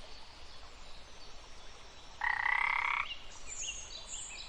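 A frog calling: one rapid, pulsed croak lasting under a second, about two seconds in.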